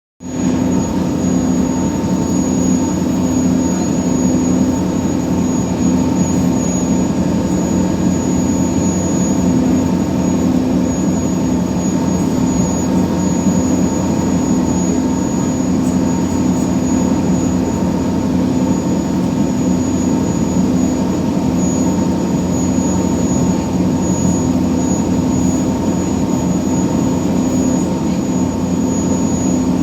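Scania diesel engine of a passenger ferry boat running at a steady speed: a constant loud drone with a thin high whine above it.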